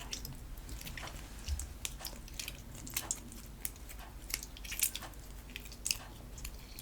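Homemade PVA-glue slime being kneaded and worked by hand, giving irregular wet clicks and squelches.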